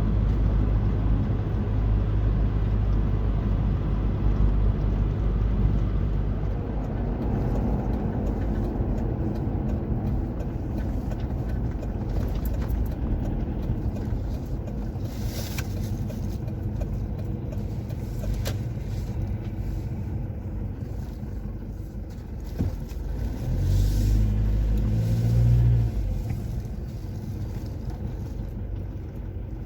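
Steady low rumble of a motor vehicle's engine and road noise, growing louder for a couple of seconds about 24 seconds in before easing off.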